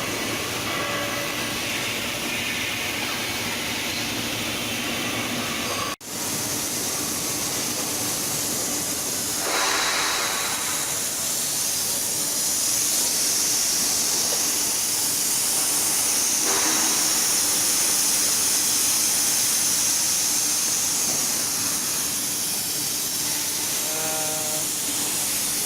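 Steady hissing from a saw-blade cooling unit running, with a brief cut about six seconds in and a louder hiss from about ten seconds on.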